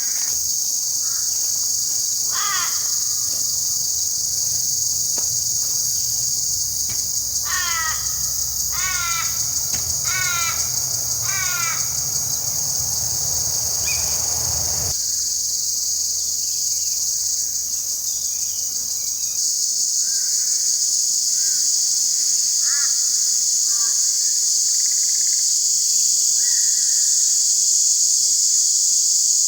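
Steady, loud high-pitched insect chorus with a crow cawing about six times, each caw falling in pitch, over the first half. A low rumble cuts off suddenly about halfway, and faint short bird calls come later.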